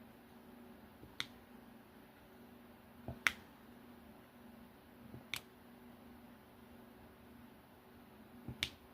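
Sharp little clicks every two seconds or so, some of them in quick pairs: a diamond-painting drill pen setting resin drills onto the canvas.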